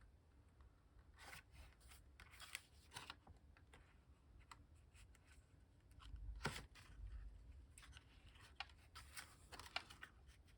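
Faint rustling and light taps of paper and cardstock being handled, with one sharper click about two thirds of the way through.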